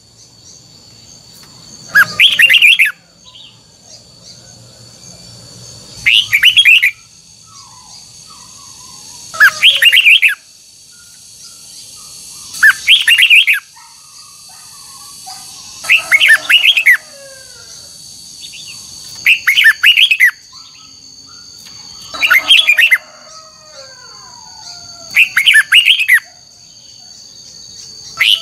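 Red-whiskered bulbul singing short, loud, warbling phrases, each under a second, repeated about every three to four seconds, eight times, over a steady high-pitched whine.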